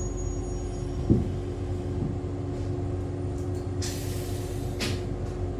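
Interior of an Echizen Railway MC6101 electric railcar at a station stop: a steady low hum from the car's equipment, a clunk about a second in, and a short hiss of compressed air a little before the four-second mark, with a smaller one just before five.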